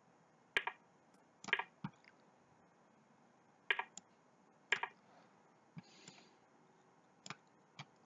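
About eight short, sharp clicks at irregular intervals, some in quick pairs, made as moves are played in a fast online blitz chess game on a computer.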